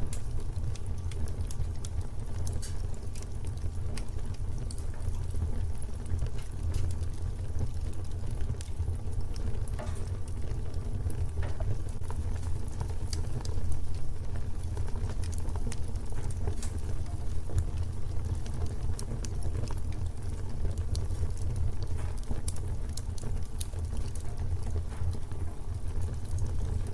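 Fireplace fire crackling: a steady low rumble with many small scattered pops and crackles.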